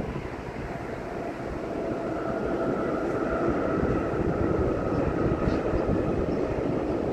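VIA Rail passenger train crossing a railway bridge at a distance. It makes a low rumble with a steady whine on top that grows louder as it rolls across.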